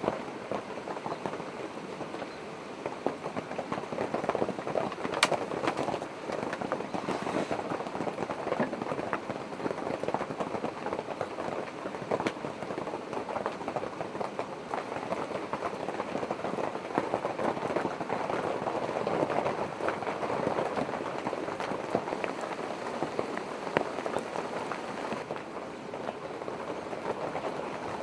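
Rain pattering steadily on the polycotton canvas of a tipi tent, heard from inside, with a few louder single drops standing out.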